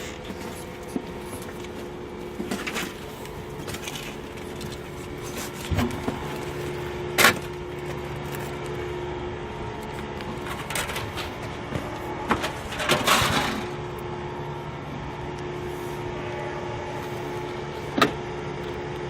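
A steady mechanical hum like an idling engine, with a few sharp knocks: the loudest about seven seconds in and just before the end, a duller thud near six seconds in, and a short scraping rustle about thirteen seconds in.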